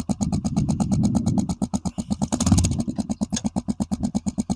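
Motorcycle engine idling with an even, rapid pulse of about ten beats a second, and a brief louder surge about two and a half seconds in.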